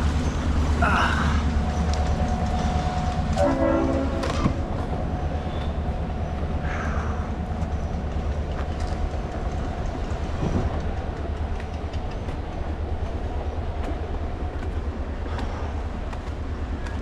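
Train rumbling past, its horn sounding briefly about three and a half seconds in.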